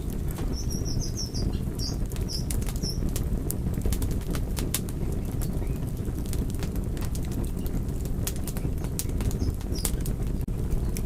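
Wood fire crackling, with many sharp pops and snaps over a steady low rumble of burning. A few short, high chirps sound in the first three seconds.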